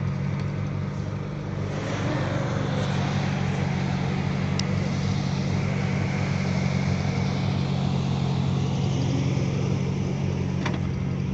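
Off-road vehicle engines running steadily at a low, even hum during a winch recovery, with a brief sharp tick about four and a half seconds in and another near the end.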